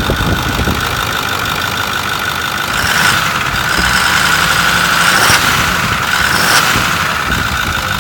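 Ford 6.4 L Power Stroke V8 diesel engine idling steadily just after start-up, with a steady whine over the engine note. It gets a little louder and brighter from about three seconds in until near the end, and it runs well.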